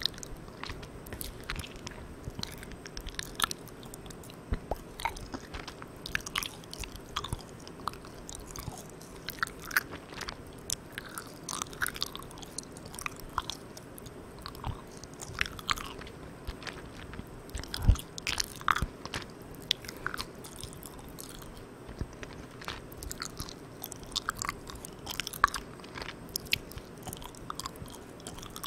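Close-miked chewing of soft, sticky Malang Cow milk candy: irregular wet, sticky mouth smacks and clicks over a steady hiss from a recorder gain turned all the way up.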